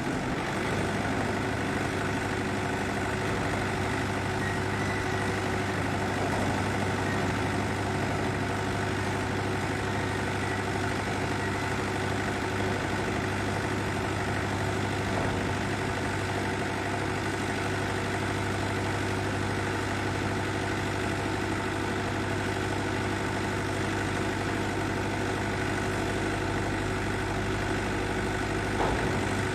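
Diesel engine of a Belarus 1025.2 tractor running steadily at idle, with a single brief knock near the end.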